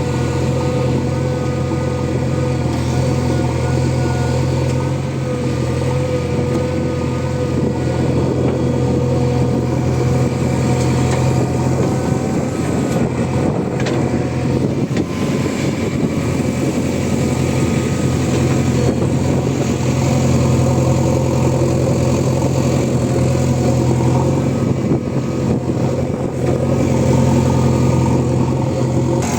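Heavy diesel engine running steadily under a working load, with slight rises in level now and then, as at a backhoe loader loading a tractor trolley.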